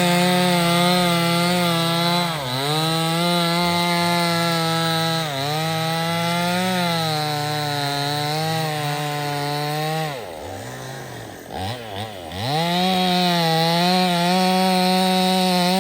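Stihl 070 two-stroke chainsaw running at high revs, cutting into teak, its pitch sagging briefly twice under load. About ten seconds in it drops to idle with a couple of quick throttle blips, then goes back to full speed about two seconds later.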